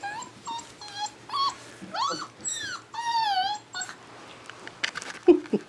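Six-week-old yellow Labrador puppies whimpering and yipping: a run of short, high-pitched whines, one longer one wavering and falling, then a lower yelp near the end.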